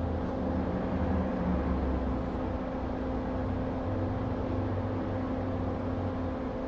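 Steady whirring hum of electric bench equipment, with a low rumble that shifts in strength and fades near the end.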